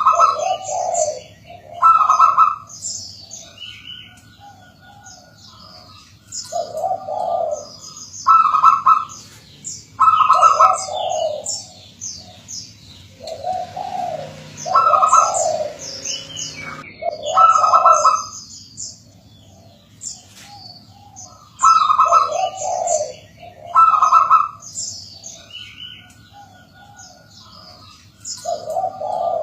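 Zebra dove (perkutut) cooing: phrases of a higher note dropping to a lower, rolling one, repeated every couple of seconds. Thin high chirps run over the top.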